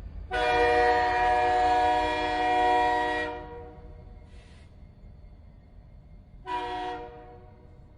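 Locomotive air horn sounding a chord of several tones: one long blast of about three seconds, then a short blast about three seconds later.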